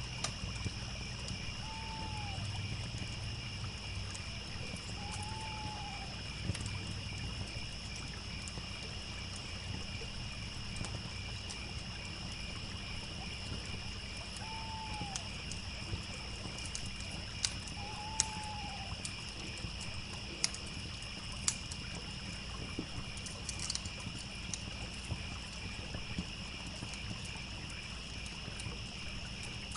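Layered evening nature ambience: crickets chirping steadily, the low rush of a trickling stream, and scattered sharp crackles of a campfire. An animal gives four short calls that rise and fall, in two pairs.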